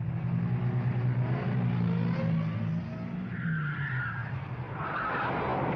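Film sound effects of a car chase: a car engine running and pulling away, its note rising, then tyres squealing about three seconds in and a skid near the end.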